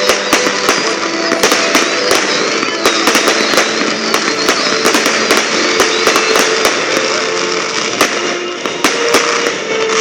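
Fireworks display going off: a dense run of sharp bangs and pops, several a second, over continuous crackling.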